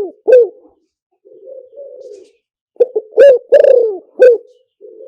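Spotted dove cooing, used as a trapping decoy call. Just after the start a phrase ends, then comes a softer, lower run of coos; about three seconds in a loud phrase of about five coos follows, and another soft run begins near the end.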